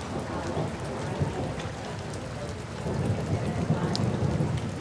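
Steady rain falling, with a low rumble swelling about three seconds in.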